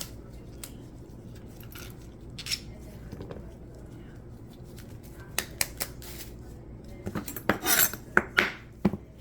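Kitchen utensils and dishes clinking and knocking: scattered sharp clicks, few at first and coming thicker in the second half.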